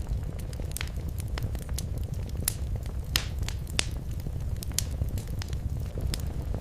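Wood fire crackling in a fireplace: irregular sharp pops and snaps over a steady low rumble of the flames, with the loudest pops about two and a half to four seconds in.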